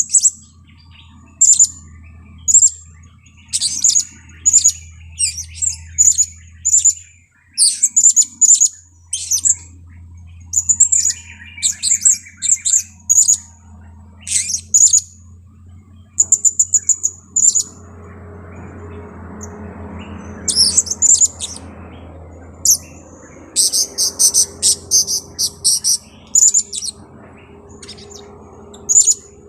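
Blue-crowned hanging parrot (serindit) calling busily as a decoy: a steady string of short, very high-pitched chirps, with fast rattling trills at about 16 seconds and again around 24 to 26 seconds.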